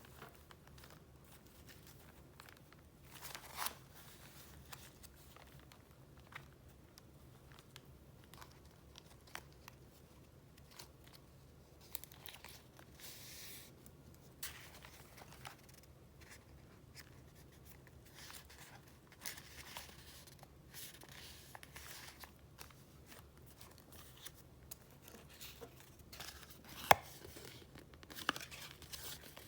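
Paper being handled: soft, intermittent rustling and crinkling as sheets and pieces of paper are shifted and flipped through, with a sharp tap or click near the end.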